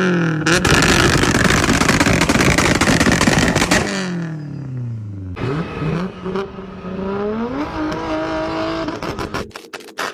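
Turbocharged car engine at high revs with dense, rapid anti-lag popping and crackling. The revs then fall away, rise again and hold, and a few sharp bangs come near the end.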